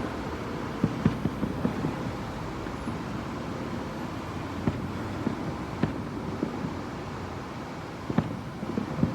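Distant fireworks going off in scattered pops and thuds, muffled through a window, over a steady background rumble.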